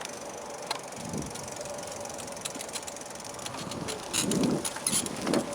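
Bicycle rolling along with steady riding noise and the rear hub's freewheel ticking in short runs of clicks, more of them in the second half, as the rider coasts.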